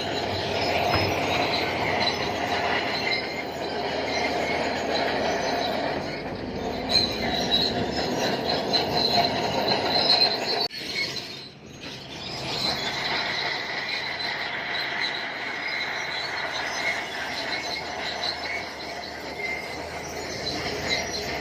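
Bulldozer working, its steel crawler tracks squealing steadily in high tones over the noise of the machine, with a brief drop in level about halfway through.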